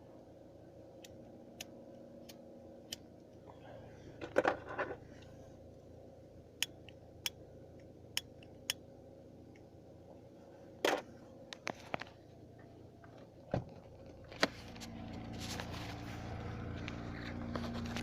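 VW Golf 3 1.6 four-cylinder petrol engine idling after a cold start, a steady low hum. Scattered sharp clicks and a few knocks sound over it. About three quarters of the way in, the engine note grows louder and fuller.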